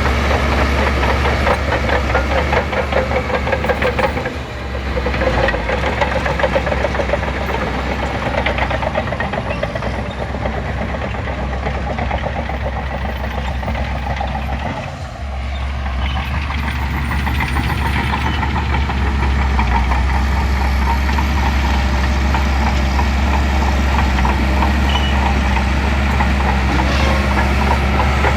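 Shantui bulldozer's diesel engine running steadily, dipping briefly twice, about four seconds in and again around fifteen seconds.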